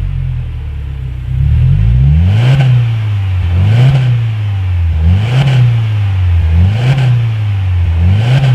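Subaru Levorg (VNH) engine through a BLITZ Nur-Spec Custom Edition stainless rear-section exhaust, revved in about five quick blips after a couple of seconds at low revs, the pitch rising and falling with each blip.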